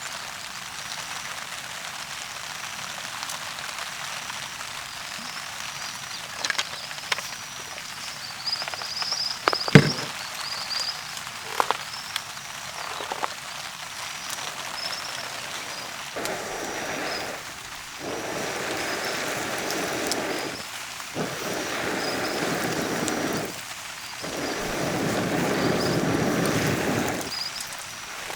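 Steady rain falling. Partway through there are a few sharp knocks, and near the end four separate rushing noises, each a second or two long, come over the rain.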